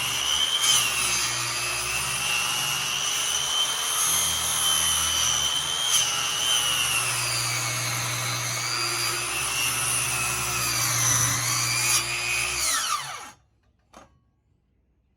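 Electric power saw running and cutting wood, its motor pitch sagging and recovering as it works through the board. About 13 seconds in the saw is switched off and winds down to silence.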